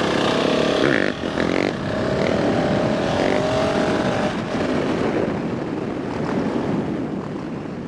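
Dirt bike engine revving under acceleration, its pitch climbing over a few seconds and then fading as it pulls away.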